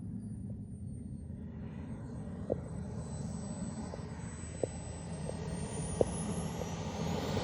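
Turbine-powered BDX RC jet in flight: a thin high turbine whine that dips slightly, then climbs steeply near the end as the jet's rushing noise swells, over a steady low rumble. Three short sharp ticks are heard along the way.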